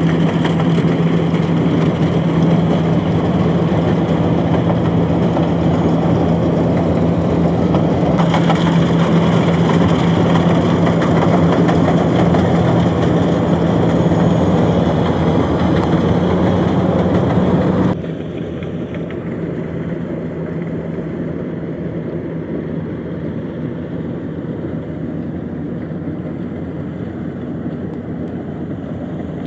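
Engine of a rice harvesting machine running steadily with a low drone. About two-thirds of the way through, the sound suddenly becomes quieter and duller, then carries on steadily.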